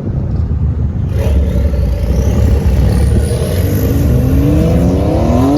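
A car's engine running loudly, then accelerating with its note rising steadily over the last couple of seconds.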